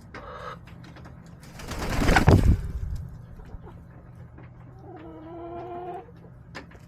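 Backyard hens: a loud rushing noise swells and fades about two seconds in, then a hen gives one drawn-out call of about a second, with small taps and ticks scattered throughout.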